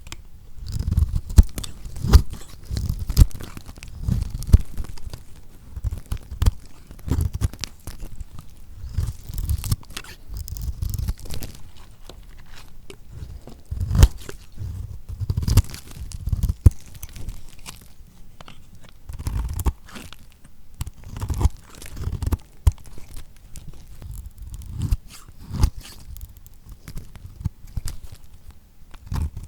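A knife cutting into lacquered bar soap: irregular crunches and sharp cracks, many over the stretch, with dull low thumps as the blade pushes through.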